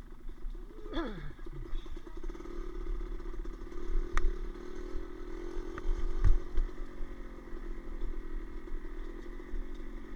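An engine running steadily, with a falling pitch about a second in as the revs drop. There is a sharp click around four seconds in and a few low knocks a couple of seconds later.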